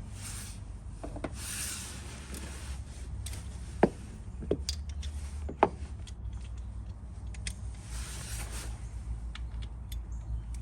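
A socket wrench with a swivel being handled and fitted onto a motorcycle engine's oil drain plug: rubbing and scraping, with a few sharp metal clinks in the middle, over a steady low hum.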